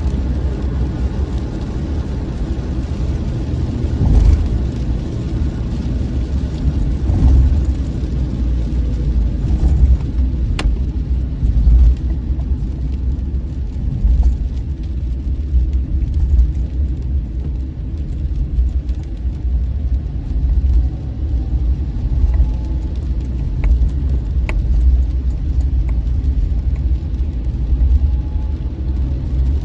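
Steady low rumble of a car on the road, with a few faint sharp ticks now and then.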